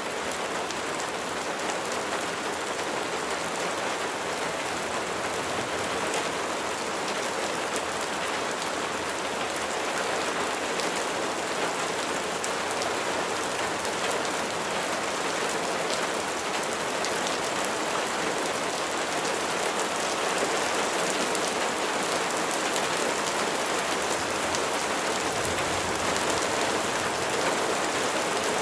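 Rain falling steadily, a dense spread of fine drop sounds, growing slightly louder toward the end.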